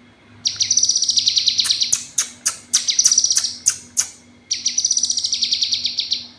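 Female kinoy calling: a high, rapid trill of repeated notes about half a second in, then a series of sharp separate notes, then a second rapid trill about four and a half seconds in.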